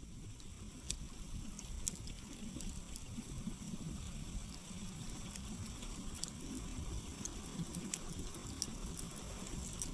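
Wood campfire burning: firewood crackling and popping in scattered sharp clicks over a steady low rumble.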